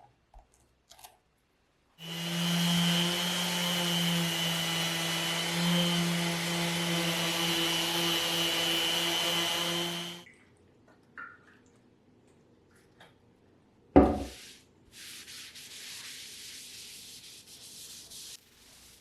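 An electric power sander running on wood with a steady motor hum, for about eight seconds before it stops. A single knock follows, then a quieter hiss for a few seconds.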